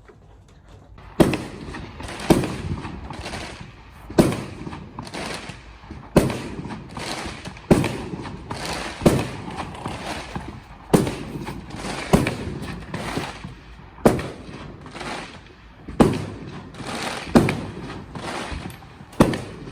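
Fireworks going off in a long barrage: sharp bangs starting about a second in and coming roughly once a second, each with a short tail.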